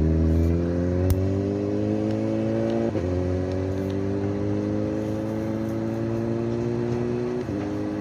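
A vehicle engine under load, its pitch rising slowly and steadily and dipping briefly twice, about three seconds in and near the end. A single sharp crack about a second in.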